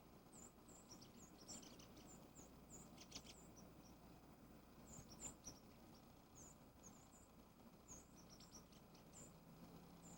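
Faint high-pitched bird chirps: many short calls a few times a second, with a few soft clicks about two to three seconds in.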